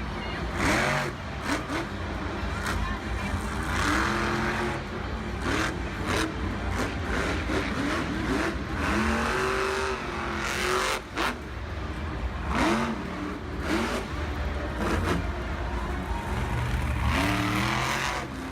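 Monster truck engines, supercharged V8s, revving hard in repeated surges, the pitch climbing and dropping about five times, over a steady low rumble with many sharp bangs scattered through.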